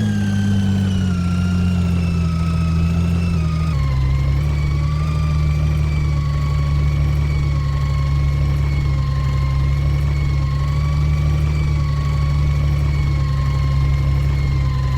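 Side-loader garbage truck's diesel engine running at raised revs with a whine from the hydraulic pump driving the loading arm. The pitch sags over the first few seconds, steps down about four seconds in, holds steady, then starts to fall away right at the end.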